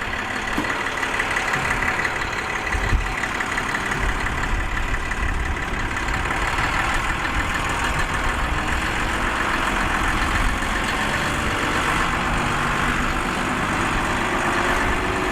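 Heavy diesel engines of the working equipment, a wheel loader and articulated haul trucks, running steadily with a low rumble. The sound grows a little louder in the second half.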